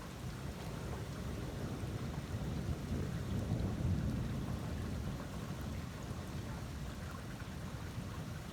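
Thunder rumbling low, swelling about three seconds in and slowly fading, over a steady hiss of rain.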